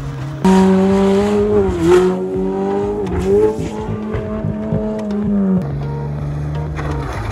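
Car engine running at high revs under hard throttle, its pitch held nearly steady with a couple of brief dips, then falling to a lower steady pitch near the end.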